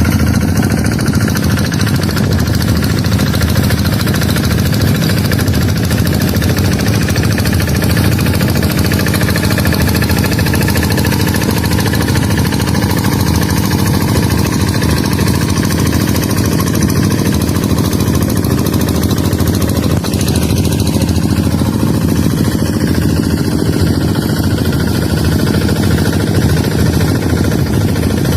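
Harvesting tractor's engine running steadily with a rapid, even knocking beat.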